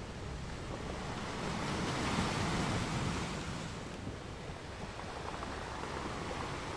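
Sea waves washing in, swelling about two seconds in and easing off about two seconds later.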